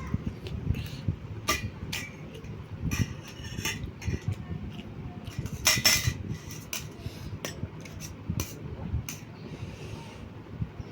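Eating sounds: cutlery clinking and scraping on a plate, with a quick cluster of louder clinks about six seconds in, over close, steady chewing.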